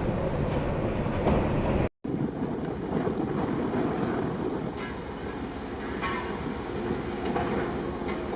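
Storm wind blowing and rough sea noise aboard a ship, a steady rumbling roar. About two seconds in it cuts out for an instant and resumes in a new clip of the same kind, with a few short louder splashes or knocks.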